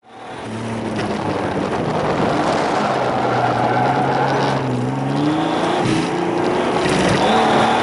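Turbocharged Pontiac Fiero (fitted with a Mk III Supra turbo) running hard through an autocross slalom, heard from inside the cabin. The engine note climbs in pitch near the middle, then dips briefly twice as the throttle comes off for the corners.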